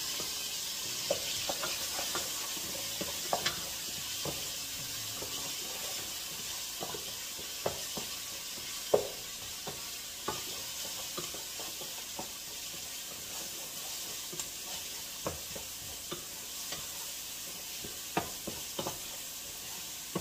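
Chopped onions and garlic sizzling as they fry in a pot, stirred with a wooden spoon that knocks against the pot at irregular moments.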